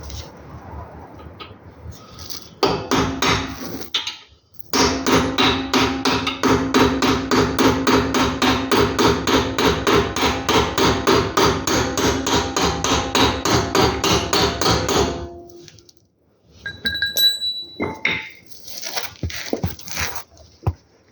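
Metal hammer blows in a fast, even run of about five strikes a second, each one ringing. A short burst comes first, then a long run of about ten seconds, and a few scattered knocks follow.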